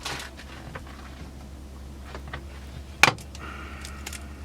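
Small handling clicks of kitchen things over a steady low hum, with one sharp knock about three seconds in.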